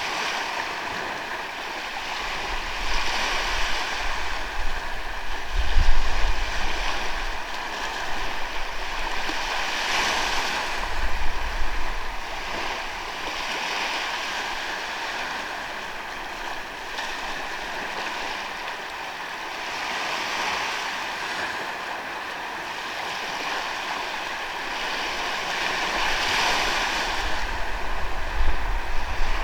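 Sea waves breaking and washing up on the shore, a steady wash that swells and eases every few seconds. Short low rumbles of wind buffet the microphone, the strongest about six seconds in.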